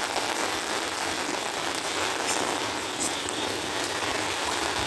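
Steady rain falling on wet pavement, an even, continuous hiss.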